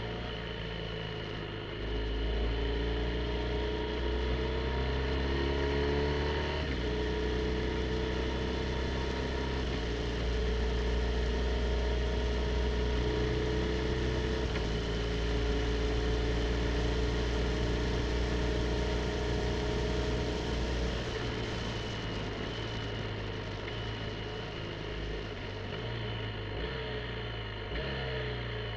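BMW R1250 GSA's boxer-twin engine running under way, its pitch shifting in steps every few seconds as the throttle and revs change through the bends, over steady wind and road noise. It is a little quieter for the last stretch, then the revs rise near the end.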